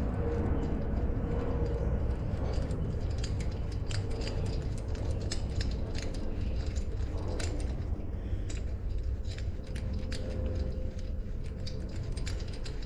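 Light metallic clicks and rattles of bolts and a tool being handled while fitting the bolts that hold down a mini lathe, coming irregularly over a steady low hum.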